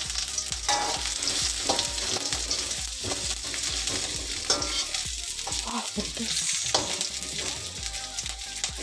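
Sliced onion sizzling steadily in hot oil in a wok, stirred with a slotted spoon that scrapes and taps against the pan.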